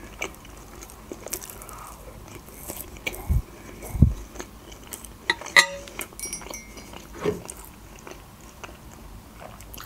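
Close-miked chewing of a soft meat cutlet, with scattered small clicks and a couple of light knocks, some from a fork against the plate.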